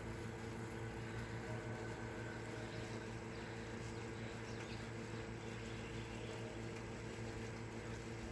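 Air conditioner running: a steady hum made of several low tones.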